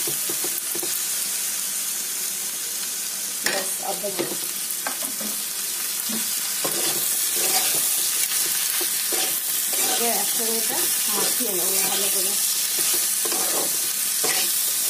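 Potato sticks and shrimp sizzling in hot oil in a non-stick wok while a flat spatula stirs and tosses them. Repeated scraping strokes of the spatula against the pan run over a steady sizzle.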